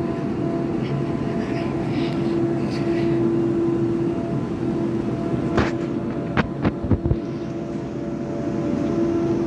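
Steady hum of a c2c Class 720 electric multiple unit, with a short run of sharp knocks about two-thirds of the way through.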